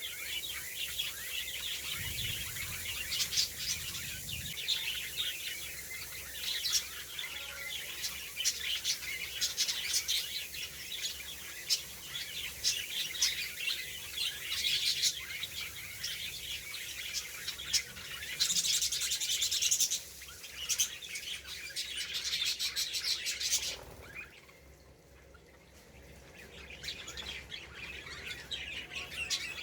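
Pet budgerigars chirping busily, many quick high calls overlapping, with a brief lull about three-quarters of the way through.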